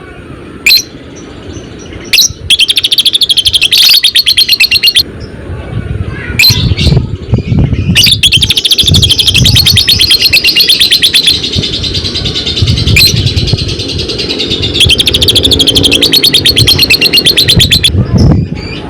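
Lovebird's long 'ngekek' chatter: three extended runs of very rapid, high-pitched repeated notes, each lasting about three seconds, with short sharp chirps in between.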